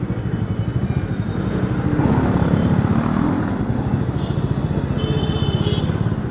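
Bajaj Dominar 400's single-cylinder engine running on the move, with a steady fast exhaust pulse that grows louder and fuller for about a second from about two seconds in, then settles back.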